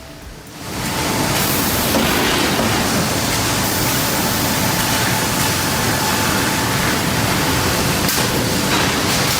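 Sawmill machinery running: a loud, steady rushing noise that comes in about a second in and holds without a clear beat.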